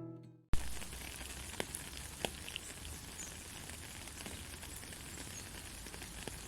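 Gentle rain falling steadily, an even patter with a few sharper drips, starting abruptly about half a second in as an acoustic guitar note fades out.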